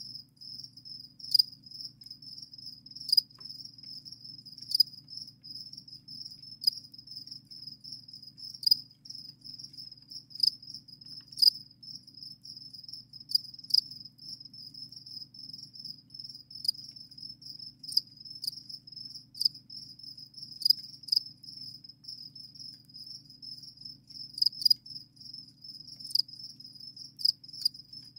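Crickets chirping steadily in a high-pitched continuous trill, with a sharper, louder chirp standing out every second or two.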